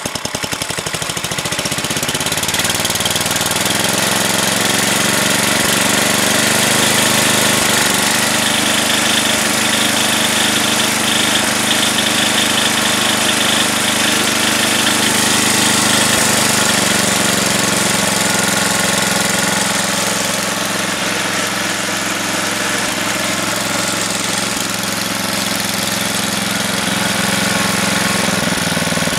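Sears Craftsman 10 hp snowblower engine running with a steady hum just after a cold start, freshly rebuilt with a carburettor kit and a new head gasket. It speeds up a couple of seconds in, then holds a steady speed.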